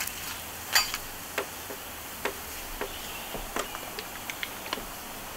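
Flour tortillas frying in oil on a propane flat-top griddle: a steady low sizzle with scattered sharp ticks and pops, the loudest about a second in.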